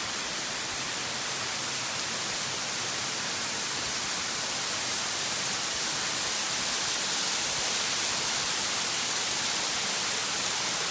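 Waterfall rushing: a steady, even hiss strongest in the highs, growing slightly louder about halfway through.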